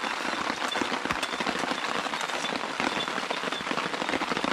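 Rain falling steadily, a dense pattering of drops on a surface.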